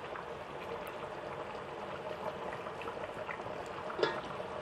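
Pot of biryani, basmati rice in spiced water, boiling hard: a steady bubbling with small pops. A single short knock comes near the end.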